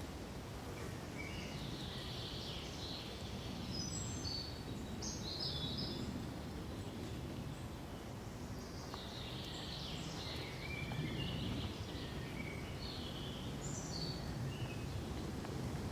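Small birds chirping in two spells of short, high calls, over a steady low rush of wind through pine trees.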